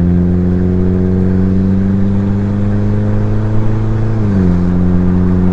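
Honda Civic with its muffler and resonator deleted, exhaust drone heard from inside the car while driving. The engine note climbs slowly, then drops quickly about four seconds in and settles into a steady drone.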